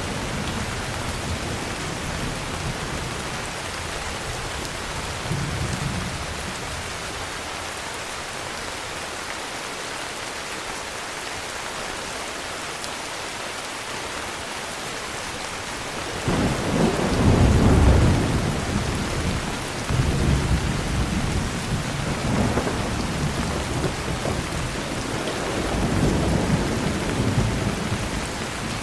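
Heavy rain falling steadily, with thunder rumbling. About halfway through a loud thunderclap breaks in suddenly and rolls on in several deep waves to the end.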